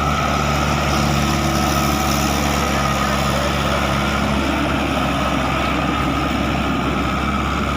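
Heavy truck engine idling steadily, with a deep low hum under a thin steady whine. It cuts in abruptly and stops near the end.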